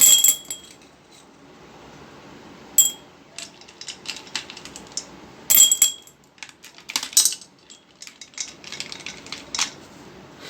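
Small decorative stones clinking against a ceramic pot: sharp clinks with a brief ringing tone, the loudest at the start and about five and a half seconds in, then a quicker run of clicks near the end.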